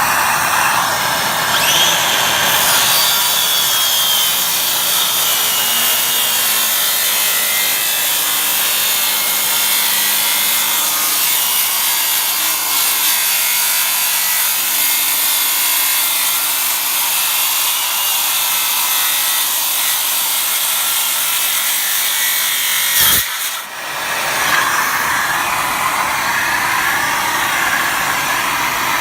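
Makita circular saw ripping a wooden cabinet filler along a scribe line, with its dust-extraction vacuum running: a loud, steady cutting sound. About three-quarters of the way through there is a sharp knock and the sound dips briefly before the cut carries on.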